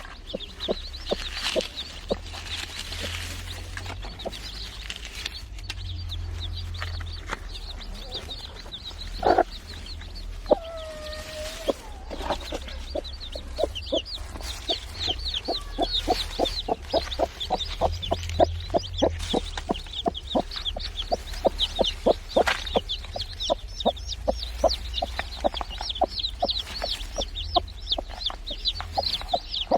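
A domestic hen clucking among her newly hatched chicks, which peep constantly in short high notes. The hen gives one drawn-out call about ten seconds in, then keeps up a fast run of short clucks, about three a second, from about halfway through.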